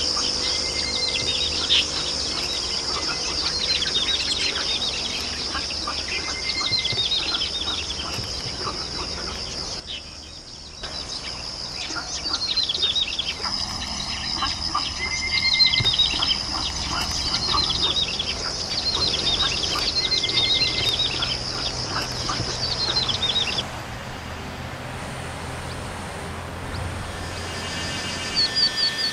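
Wild birds calling: many short, repeated high chirps, some falling in pitch, over a steady high-pitched buzz. The recording changes abruptly about ten seconds in and again twice later, as if from one bird recording to another.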